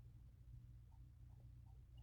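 Near silence: a few faint short marker strokes on paper over a low steady hum.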